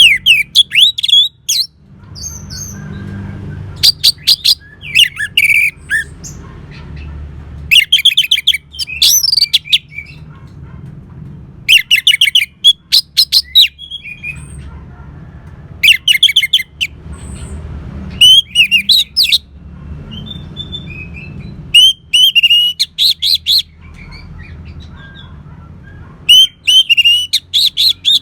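Orange-headed thrush singing: short bursts of rapid, varied high notes every few seconds, with a low steady rumble between the phrases.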